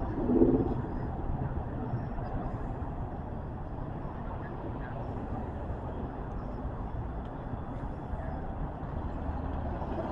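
City street traffic: a steady low rumble of passing vehicles, with a brief voice about half a second in.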